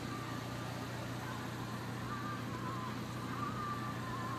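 Honda D16Z6 1.6-litre four-cylinder engine idling steadily, heard from inside the car's cabin as an even low hum.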